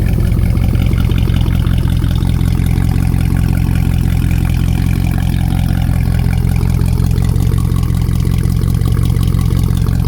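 Mercedes C63 AMG V8 idling steadily through a straight-piped exhaust, with all catalytic converters and the resonator removed and only the stock mufflers left: pretty loud just at idle.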